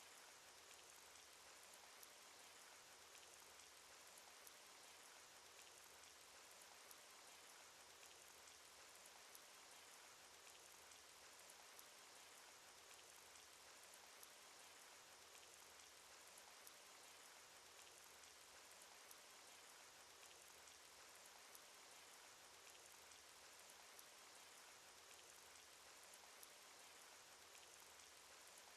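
Faint, steady cartoon rain sound effect: an even hiss of falling rain with small drop ticks, unchanging throughout.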